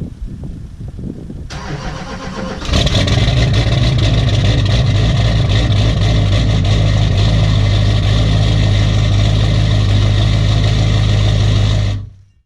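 Diesel engine cold start: a short lead-in, then about three seconds in the engine catches and settles into loud, steady running, which cuts off abruptly near the end.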